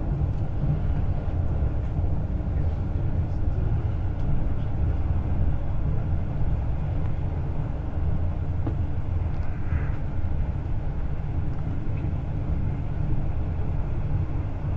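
Passenger train running steadily at speed, a continuous low rumble of wheels and running gear heard from inside the carriage.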